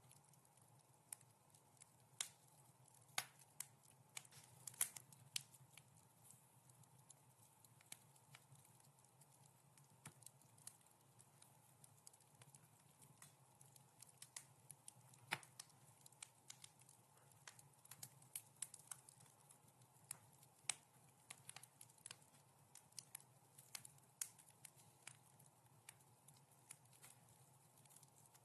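Soft wood-fire crackle in a fireplace: irregular sharp pops and snaps, sometimes several in quick succession, over a faint steady low hum.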